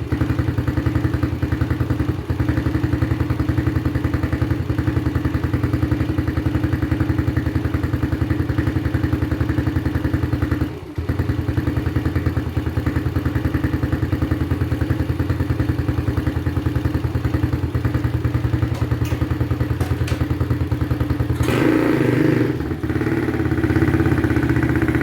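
XPRO Hawk 150cc pit bike's single-cylinder four-stroke engine running steadily with even firing pulses, breathing through a newly fitted high-flow air cleaner in place of the restrictive stock airbox. It dips briefly about eleven seconds in, and the engine note rises and changes about three-quarters of the way through.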